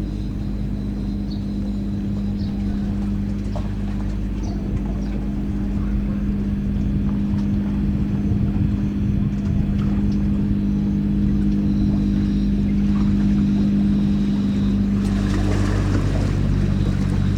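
A large ship's engines running with a steady low drone. About fifteen seconds in, a rush of noise joins for a couple of seconds and the drone's pitch shifts slightly.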